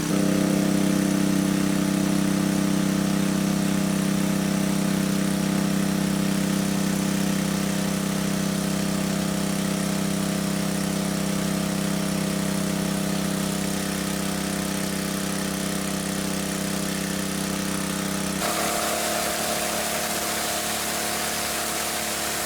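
A small engine running steadily with an even hum; its tone shifts abruptly about eighteen seconds in.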